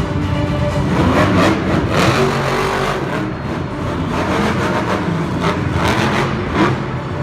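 Monster truck engine running and revving in loud swells, with arena music playing underneath.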